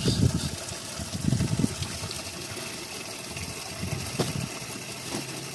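Running spring water, with irregular low sloshing and splashing in the first second and a half and again about four seconds in.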